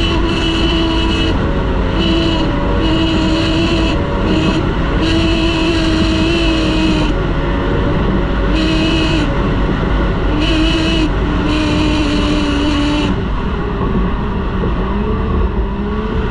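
Racing outboard engine of a T850-class boat running hard at speed under a constant rushing noise. Its high whine cuts in and out repeatedly and the pitch wavers, then the whine drops away about 13 seconds in.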